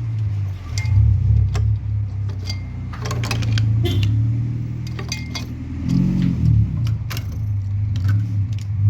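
Small metallic clicks and rattles as the PTC starting relay and overload protector are pried off the refrigerator compressor's terminal pins. A steady low hum runs underneath.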